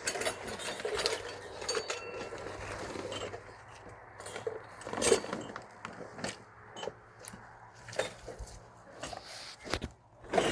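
Irregular clicks and knocks of hard objects being handled, with a busier clatter in the first three seconds or so and a few brief ringing notes.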